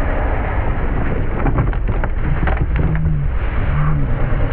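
An ATV engine running under heavy wind and snow noise on the microphone: a dense, loud hiss over a low rumble, with scattered clicks in the middle.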